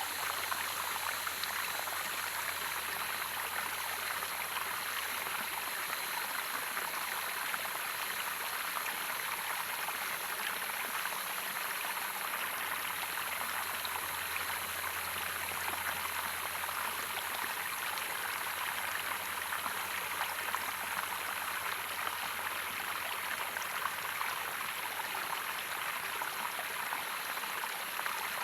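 Steady rush of running water from a stream or small waterfall, an even splashing hiss with no let-up.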